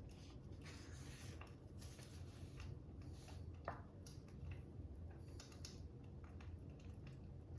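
Faint ticks and short scratchy strokes of a stylus writing and tapping on a tablet screen, with a fire crackling softly behind them over a low steady hum. One sharper click comes a little over halfway through.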